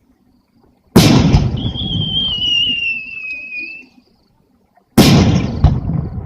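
Two aerial firework shell bursts about four seconds apart: a sudden loud bang about a second in, followed by a high whistle that falls slightly in pitch over about two seconds, then a second bang near the end with another crack right after it.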